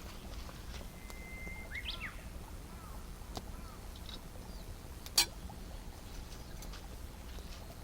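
Birds chirping in short curved calls, with one held whistle that breaks into quick rising and falling notes about two seconds in. A single sharp snap comes about five seconds in, over a steady low rumble.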